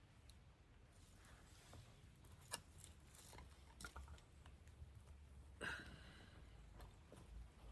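Wood campfire burning faintly, with scattered irregular crackles and pops; a sharp pop comes about two and a half seconds in and a louder crackle just under six seconds in.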